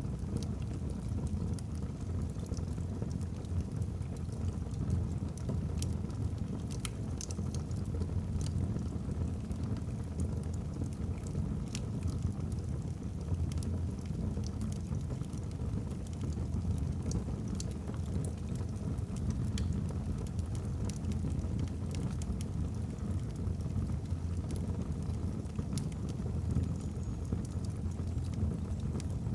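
Wood logs burning in a fireplace: a steady low rumble of the fire with scattered sharp crackles and pops from the burning logs.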